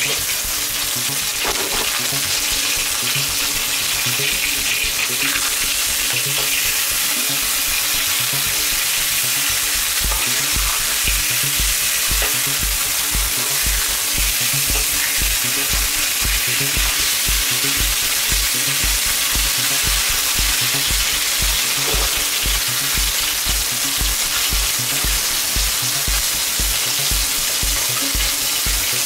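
Marinated pork chops sizzling and crackling in hot oil in a wok, a steady frying hiss. A steady low beat of background music comes in about ten seconds in.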